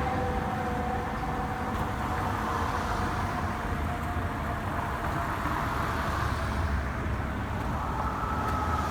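Fire engine siren holding a steady tone that slowly falls in pitch, over a rumble of truck engines and street traffic. A second, higher siren tone starts near the end.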